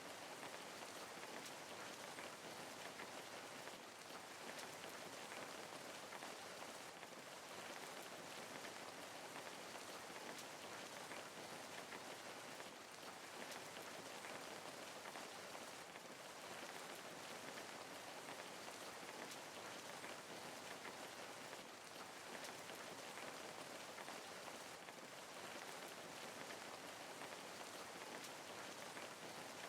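Steady rain falling: an even hiss with many fine drop ticks, holding a constant level throughout.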